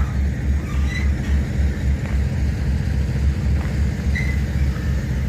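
Diesel freight locomotive engine running close by, a loud, low, evenly pulsing rumble.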